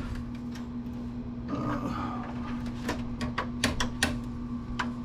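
Scattered light clicks and clinks of small metal tools and parts being handled, bunched in the second half, over a steady low hum.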